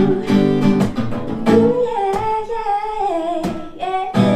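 Acoustic guitar strumming chords, with a wordless sung line sliding up and down in pitch through the middle, where the strumming thins out.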